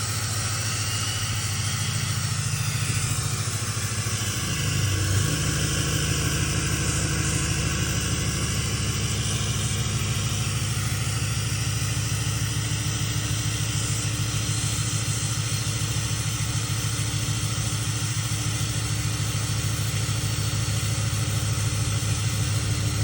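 L5P Duramax 6.6-litre V8 turbodiesel idling just after a cold start, running steadily. About five seconds in, its note changes and gets slightly louder, then holds steady.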